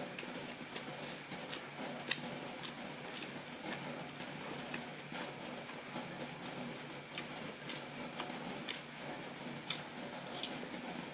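A person chewing noodles close to the microphone: irregular wet mouth clicks and smacks over a steady hiss.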